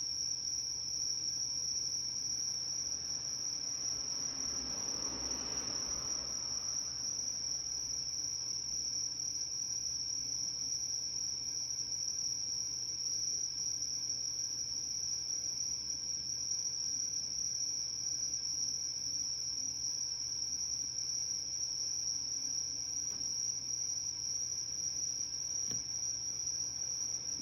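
A singing insect, cricket-like, trills continuously on one steady high pitch, with a soft rustling swell about five seconds in.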